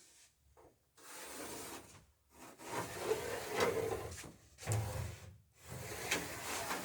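Wood rubbing and scraping against wood in four drawn-out strokes of about a second each, as a board or batten is slid and handled against the boat's planking.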